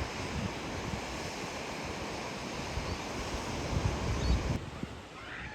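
Wind buffeting the microphone over a steady rush of surf, cutting off abruptly about four and a half seconds in.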